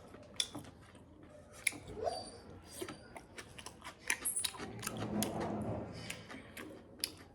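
Close-up mouth sounds of a person chewing food: many short, sharp wet clicks and smacks, with a softer stretch of chewing about five seconds in.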